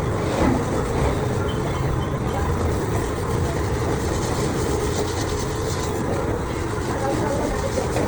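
Machinery running steadily with a continuous rattling clatter.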